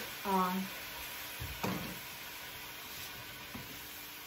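Chicken in curry spices sizzling in a stainless steel pot on low heat, a steady frying hiss. A sharp click right at the start and a short knock about one and a half seconds in.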